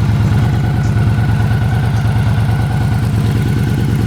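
2013 Victory Hardball's V-twin engine idling steadily with an even beat of firing pulses. It sounds healthy.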